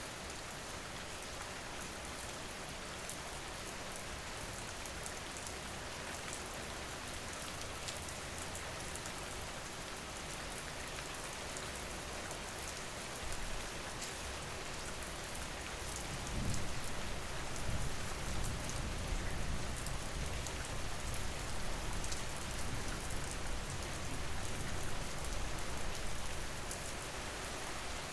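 Steady rain falling, with the patter of individual drops. About halfway through, a low, uneven rumble comes in underneath and stays.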